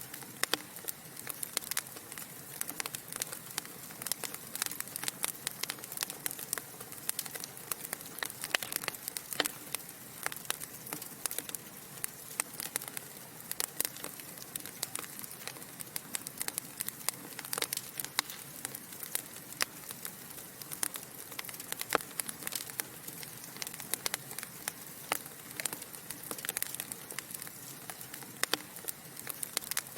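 Wood fire of burning logs crackling: frequent irregular sharp pops and snaps over a soft steady hiss.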